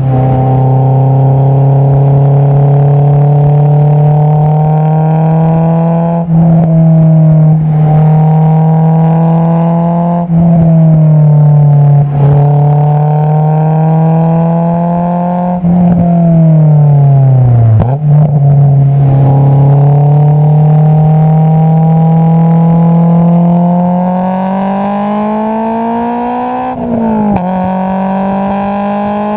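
Exhaust note of a Honda S2000's 2.2-litre four-cylinder through an Invidia Q300 exhaust, heard close at the tailpipe while driving. It holds a steady pull with several brief dips in pitch and level at the gear changes, and climbs slowly near the end.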